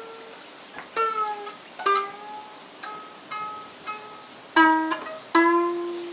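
Twelve-string diatonic heart lyre plucked one string at a time in a slow melody of single notes, each left to ring out; the last two notes are louder and the final one rings longest.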